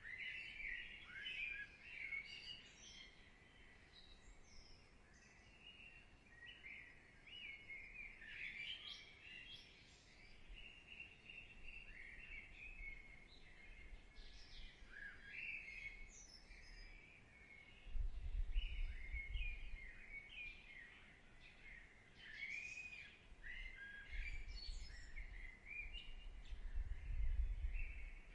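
Many small birds chirping and singing, short overlapping calls and trills throughout. A low rumble comes in twice, about two-thirds of the way through and again near the end.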